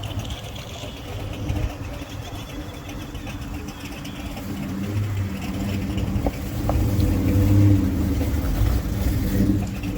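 A car engine running at low speed as a show car rolls past, getting louder past the middle and loudest about three quarters of the way through.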